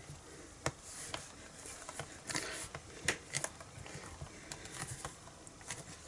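Scattered light taps, clicks and rustles of hands handling a stamping platform, stamp and card stock.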